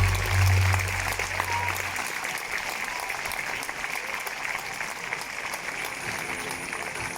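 Crowd applauding, a dense patter of many hands clapping. Deep bass from background music fades out about two seconds in.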